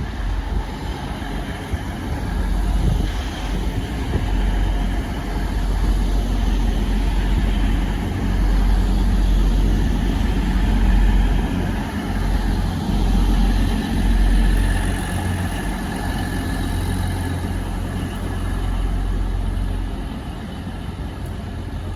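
Grand Central Class 180 diesel multiple unit coming into the platform, its underfloor diesel engines running with a steady low rumble that swells and eases slightly.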